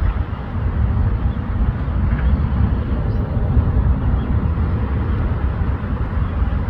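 Wind buffeting the microphone outdoors: a steady, fluttering low rumble.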